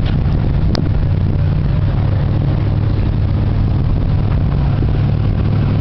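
A car engine idling steadily, with one sharp click about three-quarters of a second in.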